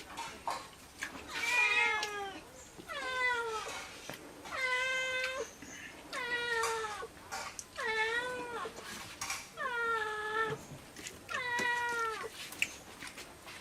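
A cat meowing over and over, about seven calls roughly a second and a half apart, each sliding down in pitch and then holding. Light clicks and knocks sound between the calls.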